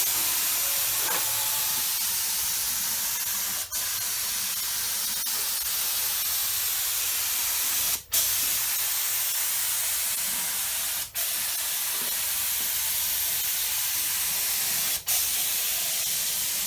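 Compressed-air paint spray gun spraying sealer onto a car door in a steady hiss, with brief breaks where the trigger is let go between passes, four times.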